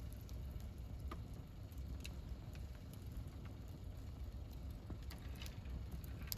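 Wood campfire burning: irregular sharp pops and crackles over a low steady rumble, with a louder pop near the end.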